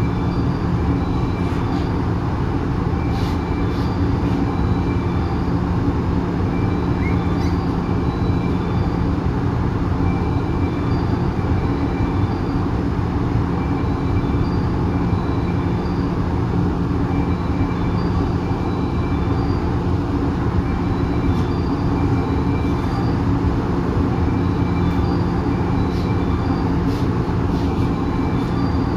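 103 series electric train running at steady speed, heard from inside the car by the line breaker: an even rumble of wheels on rail under a steady low hum that holds its pitch, with a few faint clicks.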